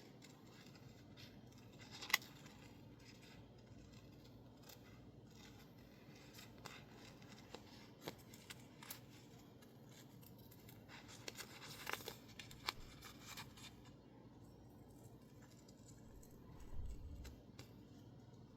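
Scissors snipping through sticker label paper in quiet, irregular cuts with light paper rustling, and a dull low thump near the end.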